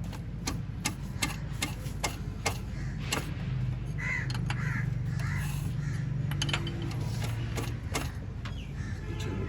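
Sharp metallic clicks and clinks of hand tools on metal, with crows cawing a couple of times about four seconds in and a steady low hum underneath.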